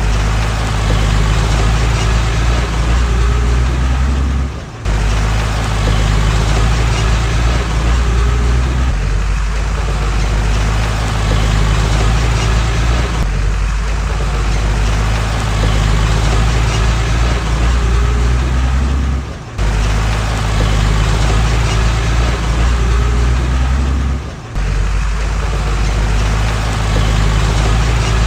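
Diesel engine of earthmoving machinery running steadily under load, with a deep, even drone. It breaks off briefly three times, about five, twenty and twenty-four seconds in.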